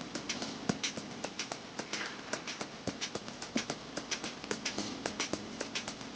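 Rapid, irregular light tapping and clicking, several strokes a second, over a faint steady low hum.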